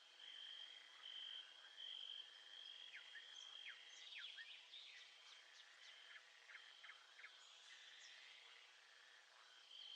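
Faint nature ambience: a steady, high-pitched trill coming in pulses of about a second, with a bird's quick falling chirps in the middle.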